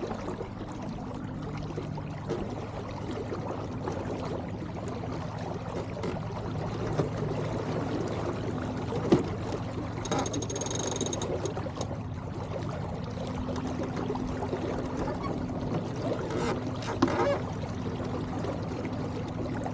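Water gurgling and trickling along the hull of an Elliot 7.4 keelboat sailing in light wind, with a few knocks from gear on deck and a brief high-pitched squeak about halfway through.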